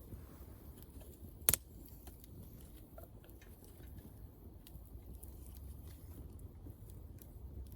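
Wood bonfire crackling, with faint scattered ticks and one sharp pop about a second and a half in, over a low steady rumble.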